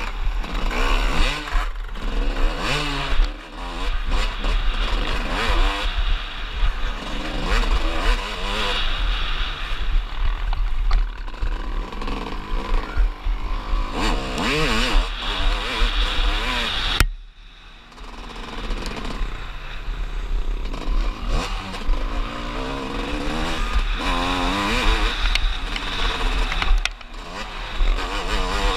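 Onboard sound of an enduro motorcycle's engine revving hard under race throttle, its pitch climbing and falling again and again with gear changes and throttle. About seventeen seconds in the sound drops away abruptly for about a second, then the engine is back on the gas.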